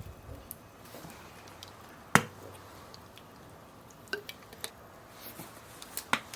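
Faint crackling and scattered sharp clicks from a charcoal grill and wood fire, with one loud click about two seconds in and a run of smaller crackles near the end.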